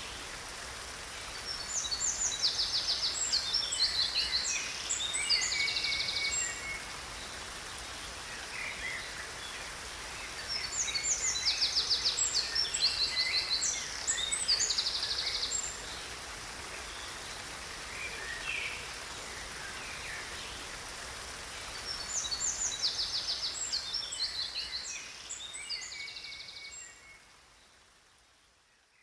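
A songbird sings three long bouts of rapid, high trills and chirps over a steady rush of falling water. Everything fades out near the end.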